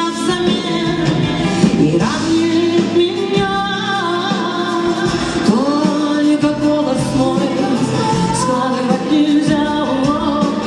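A pop ballad with a woman singing long, held notes over instrumental backing.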